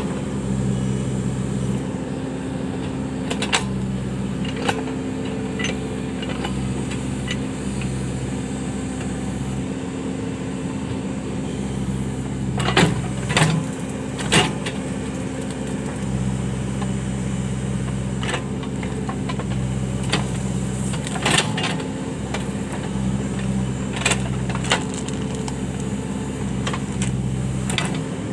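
Case 580 backhoe loader's diesel engine running steadily under work, with sharp knocks and clanks now and then, a cluster of them about halfway through.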